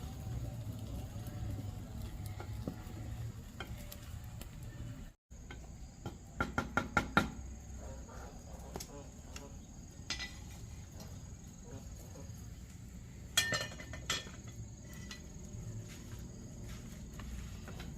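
Scattered light knocks and clinks of objects being handled, with a quick run of them about six to seven seconds in and a sharp pair about thirteen and fourteen seconds in, over a steady faint high-pitched tone.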